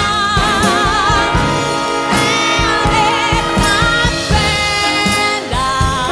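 A big band playing with a singer, with held, wavering vibrato notes over a steady beat.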